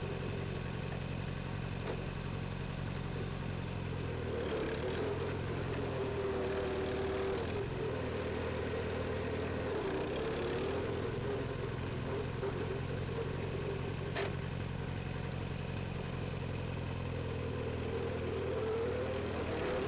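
1959 Farmall 340 tractor engine running steadily, about at idle.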